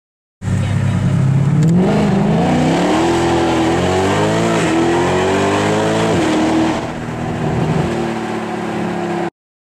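Ferrari 458 Italia's naturally aspirated 4.5-litre V8 accelerating hard, its pitch climbing and then dropping sharply twice, about halfway in and again a little later, before holding a steady note that cuts off suddenly near the end.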